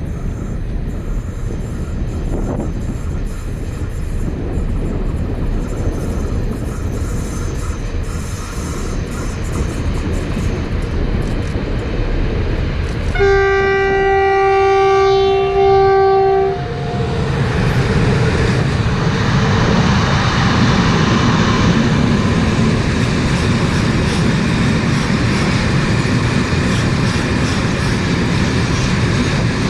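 Train approaching, then sounding its horn in one loud steady blast of about three seconds with a short break near its end. The train then passes close by with a louder rumble of wheels on rails.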